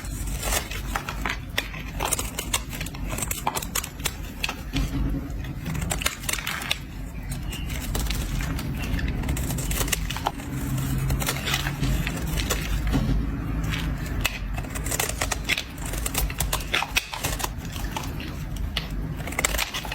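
A blade scraping and shaving a bar of soap, giving a continuous run of crisp, crackly scrapes at an irregular pace.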